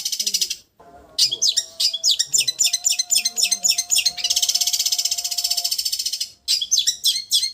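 Long-tailed shrike (cendet) song in the 'getar' style: a fast, even, buzzing trill that alternates with runs of quick separate chirping notes. The sound cuts out abruptly twice for a fraction of a second, about a second in and near the end.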